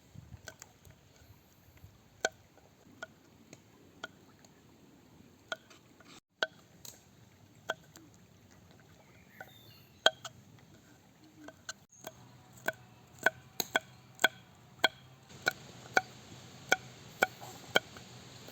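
Knife chopping on a cutting board: scattered single chops at first, then a steady run of chops about twice a second in the last six seconds.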